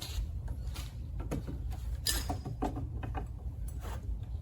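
Metal parts of a trike's rear axle assembly being handled and fitted, giving scattered light clicks, knocks and scrapes.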